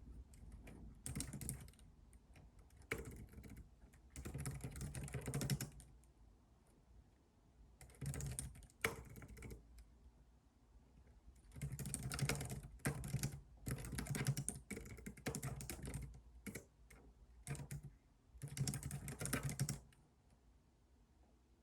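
Typing on a computer keyboard in spurts of a few seconds, with short pauses between them; the typing stops about twenty seconds in.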